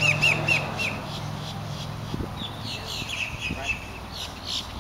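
A bird chirping a quick run of short down-slurred notes, once at the start and again about three seconds in, over a low steady hum that stops about two seconds in.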